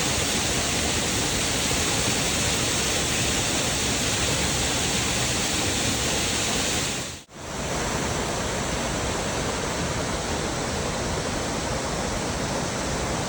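Steady rushing of a waterfall, an even hiss of falling water. About seven seconds in it drops out for a moment, then comes back slightly quieter.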